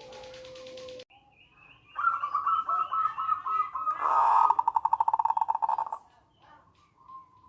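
Zebra dove (perkutut) calling: a run of quick, repeated cooing notes that begins about two seconds in and stops about six seconds in, loudest and fastest in its second half.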